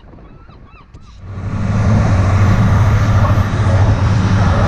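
Gulls calling over a faint background, then about a second in a sudden cut to a fishing boat running at speed: a loud steady engine drone with the rush of wind and wake spray over it.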